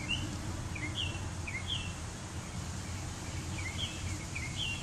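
Backyard songbirds chirping: short, quick chirps, often in pairs, with a pause of a second or two in the middle. Underneath is a low, steady background rumble.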